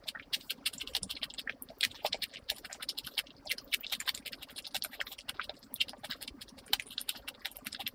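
Close-miked chewing of a mouthful of food with lips closed: a quick, irregular run of small wet clicks and smacks.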